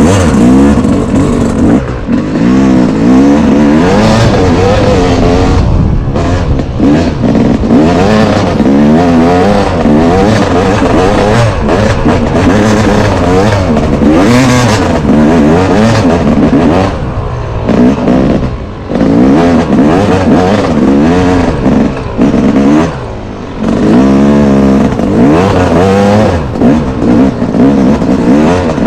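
Single-cylinder off-road engine revving up and down continuously as it is ridden along a trail. The throttle is rolled on and off every second or two, and it eases off briefly about two-thirds of the way through and again a few seconds later.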